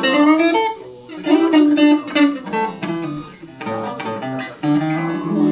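Electric guitar, a Van Zandt Telecaster through a Roland JC-120 amp, playing a blues fill of single notes between sung lines, ending on a held chord left ringing near the end.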